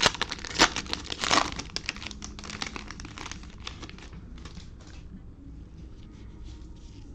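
Cellophane wrapper of a trading-card cello pack crinkling and tearing as it is opened, densest in the first three seconds, then thinning to faint rustles about five seconds in.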